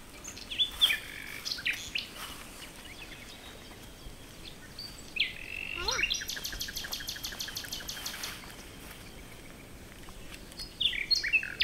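Birds chirping in the open: short calls and whistles near the start and again near the end, and a fast trill of rapidly repeated notes, about eight a second, for a couple of seconds around the middle.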